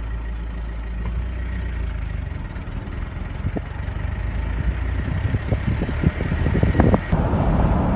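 Motor vehicle engine running with a steady low rumble, with a run of knocks and rattles in the middle and the sound growing louder near the end.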